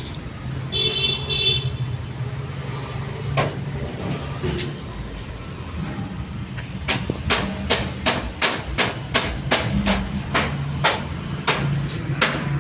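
Hammering: a run of sharp strikes, about two a second, starting about seven seconds in, with a single knock earlier, over a steady low hum.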